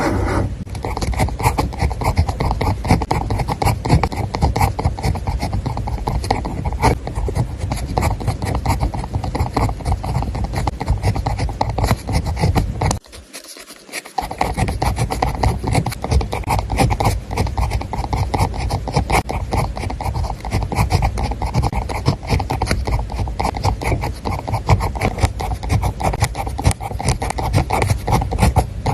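Pen scratching quickly across paper in continuous writing strokes, broken by a brief drop to near quiet about thirteen seconds in.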